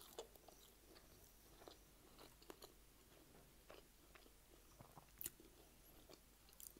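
Faint chewing of a mouthful of chicken and rice burrito: soft, irregular mouth clicks and squelches, with the clearest one a little past halfway.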